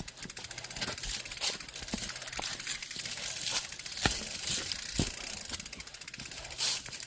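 Mountain bike's freewheel hub clicking rapidly as the bike is pushed along on foot, with a few louder knocks as it bumps over the ground.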